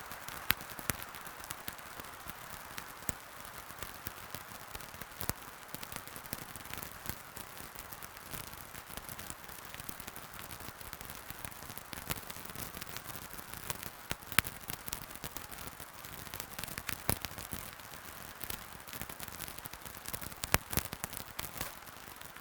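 Wood fire burning in a fireplace: steady hiss of the flames with irregular crackles and sharp pops, a few of them much louder than the rest.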